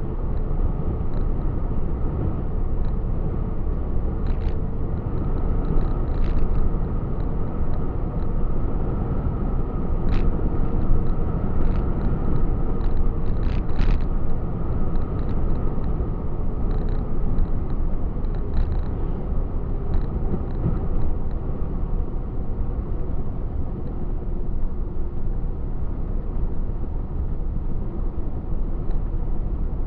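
Truck driving along the road: a steady low engine and road rumble, with a few faint clicks in the middle.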